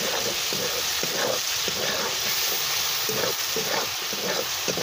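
Chopped tomatoes, onion and chillies sizzling in hot oil in a metal wok, while a metal spatula scrapes and stirs them in repeated strokes about two a second.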